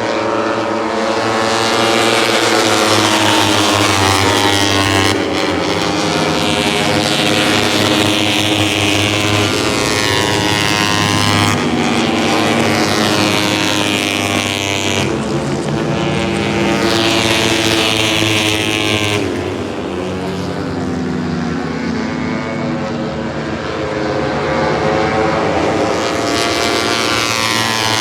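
Moto3 race bikes' 250cc single-cylinder four-stroke engines revving hard at high rpm, several at once. Their pitch climbs and drops over and over with throttle and gear changes, and the sound shifts abruptly several times.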